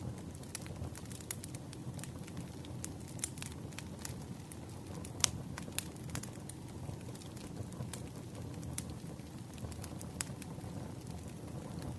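Wood fire crackling: a steady low rumble with frequent sharp pops and snaps, the loudest just after five seconds in.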